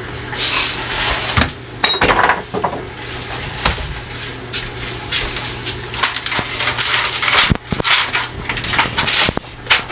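Irregular knocks, clicks and clatter, as of hard objects being handled and set down, over a steady low hum.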